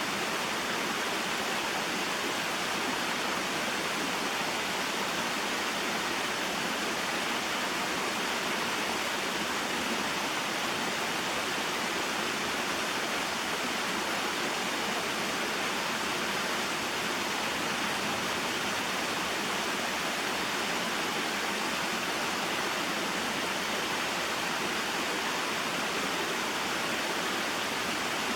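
Small waterfall spilling into a mountain stream: a steady, unbroken rush of falling and flowing water.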